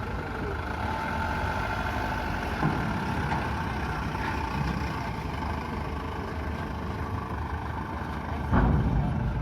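Heavy vehicle engines running at low revs in a steady low rumble as trucks and buses load onto a river ferry, with a short louder burst of engine noise near the end.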